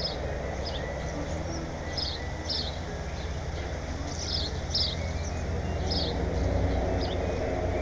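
A small bird chirping repeatedly: short, high, downward chirps, often in pairs about half a second apart, over a steady low rumble.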